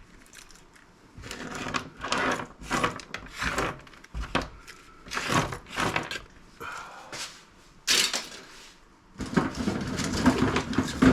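Irregular clatter and knocks of hard scrap pieces, plastic parts among them, being handled and set down on a workbench. There is a sharp click about eight seconds in and denser rattling near the end.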